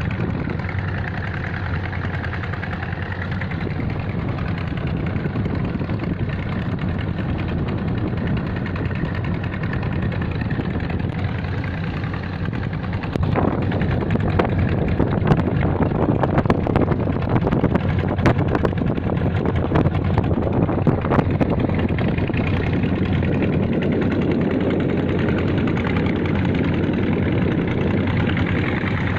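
A boat's engine running steadily with a low hum. It gets louder about halfway through, with a run of sharp knocks for several seconds after.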